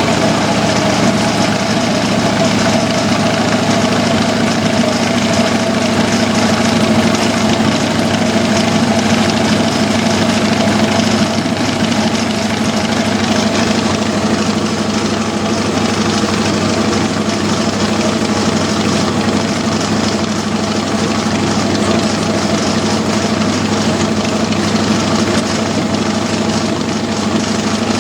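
Chevy 350 small-block V8 running steadily at a constant speed, powering a homemade sawmill through a transmission and V-belt drive.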